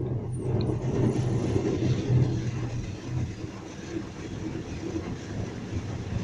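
Automatic brush car wash running, heard from inside the car: a steady rumbling wash of brushes and water working over the car's sides, easing slightly about halfway through.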